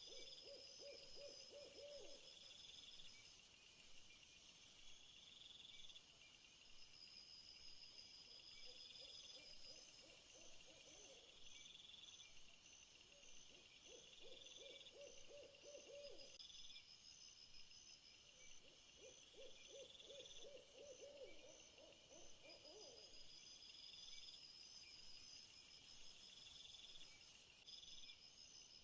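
Faint nature soundscape: a steady high chirring chorus of calling insects, with a low pulsed trill, about two seconds long, repeated four times at intervals of five to six seconds.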